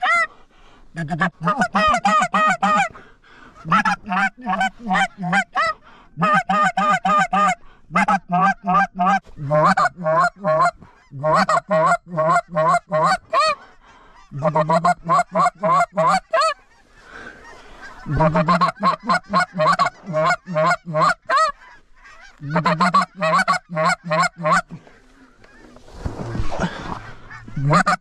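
Hand-blown goose calls sounding rapid runs of honks and clucks, several notes a second, in bursts of one to three seconds with short breaks: hunters calling to draw geese in. About 26 seconds in there is a brief breathy hiss.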